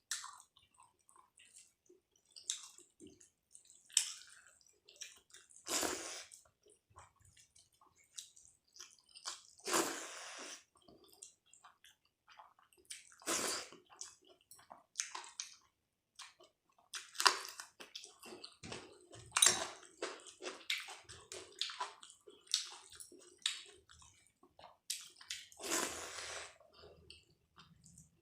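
Close-miked eating of dal and rice: wet chewing, squishing and small mouth clicks, with several louder, longer wet sounds about six, ten, thirteen and twenty-six seconds in.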